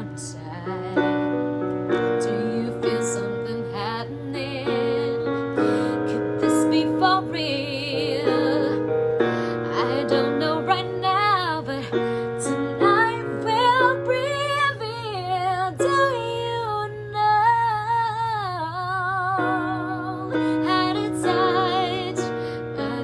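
A female singer singing a slow ballad over keyboard accompaniment, with a wavering vibrato and vocal runs through the middle of the passage.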